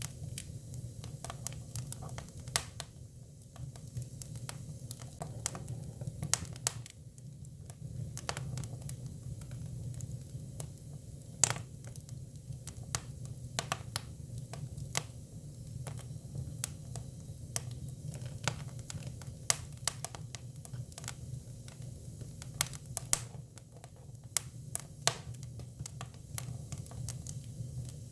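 Hinoki (Japanese cypress) firewood burning: irregular sharp crackles and pops over a steady low rumble.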